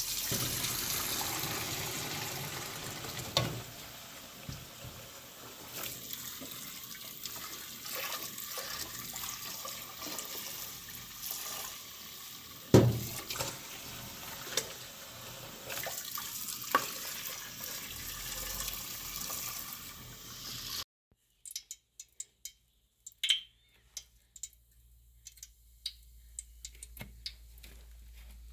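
Water running and splashing, with a few sharp knocks. About 21 seconds in it stops abruptly, leaving scattered light clicks and scrapes.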